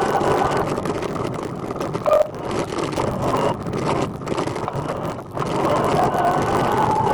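Riding noise from a moving recumbent trike: steady wind on the microphone and rolling tyre noise, with a short sharper sound about two seconds in.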